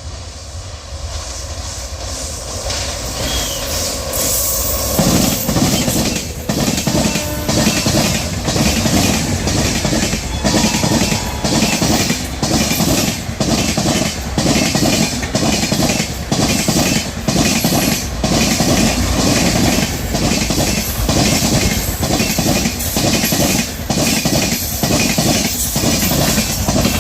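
A train approaching and then running past close by: the noise builds over the first five seconds, then the wheels clatter over the rail joints in a steady, rapid beat as the coaches go by.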